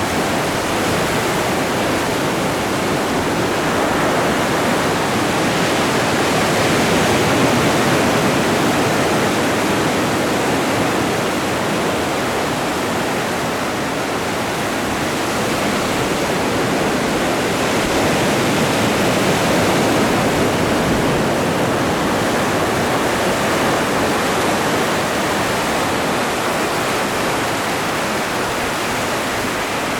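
Ocean surf: a dense, steady rush of breaking waves that swells and eases slowly, loudest about a quarter of the way in and again about two-thirds in.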